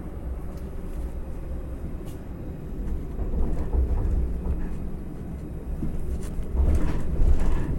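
A tram running, heard from inside the car as a steady low rumble with scattered small rattles and clicks. It grows louder and harsher near the end.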